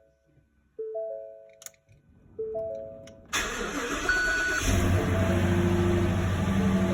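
A truck's three-note warning chime repeats twice, then the engine cranks about three seconds in and catches about a second later, settling into a steady idle. A short beep sounds as it catches.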